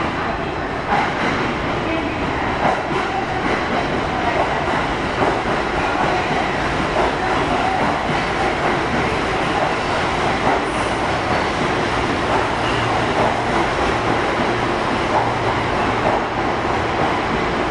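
Kintetsu 1021 series electric train standing with its equipment running before departure: a steady hum and hiss inside the car, with a low steady hum joining about twelve seconds in.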